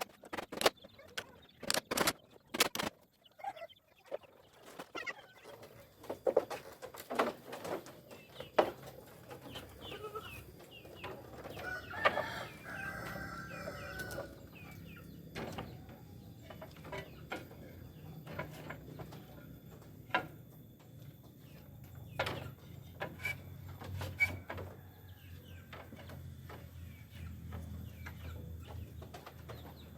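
Chickens clucking, with scattered sharp knocks, most of them in the first few seconds.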